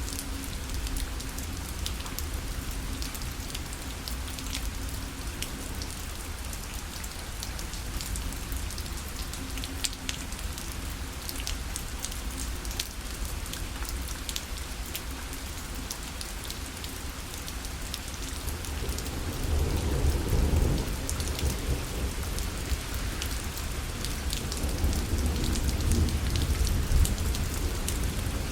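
Rain falling on a parasol, many separate drops ticking over a steady hiss. A low rumble of thunder swells about two-thirds of the way through and again near the end.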